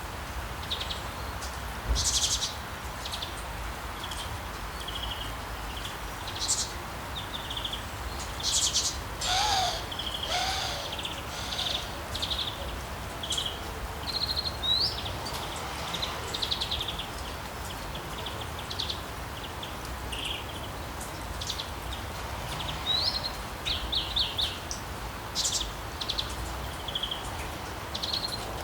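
Songbirds chirping and trilling over and over, with short high calls throughout and a lower, swooping call about nine and ten seconds in, over a steady hiss of rain.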